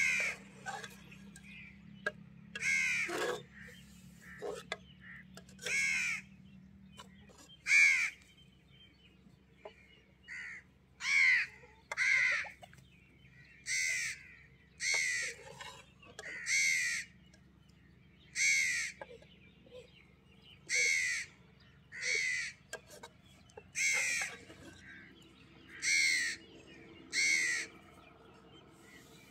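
A bird calling over and over with short, harsh, falling calls, about fifteen of them at intervals of one to three seconds, some in close pairs.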